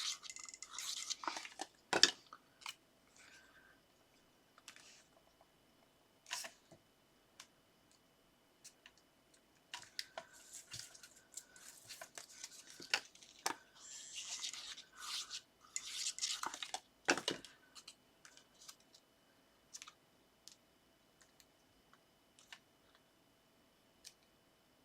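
Paper and card being handled and stuck down by hand: rustling and scratching of paper in two stretches, near the start and again in the middle, with a few sharp taps and clicks, the loudest about two seconds in.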